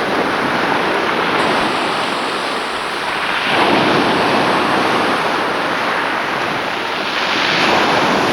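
Sea waves washing in, a steady rush of surf that swells about three and a half seconds in and again near the end, with wind buffeting the microphone.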